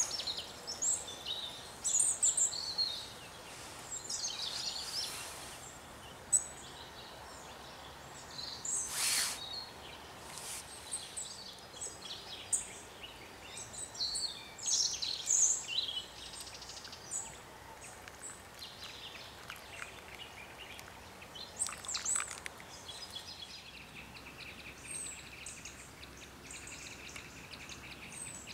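Wild birds chirping and calling in woodland, many short high chirps scattered over a steady background hiss, with a single sharp click about six seconds in. A steady high buzzing trill joins near the end.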